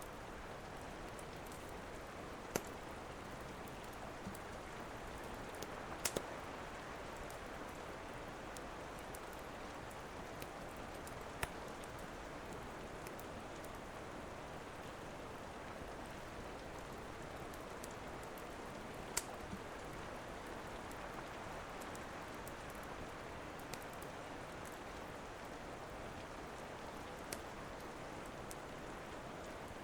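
Steady rain, an even hiss, with a fireplace crackling: a handful of sharp, isolated pops scattered through.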